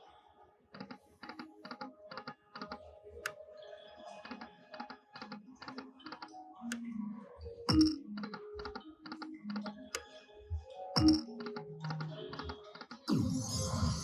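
Lightning Link slot machine spinning: a quick run of sharp clicks as the reels tick and stop, mixed with short electronic tones, with two louder knocks along the way. About a second before the end a loud burst of the machine's music starts.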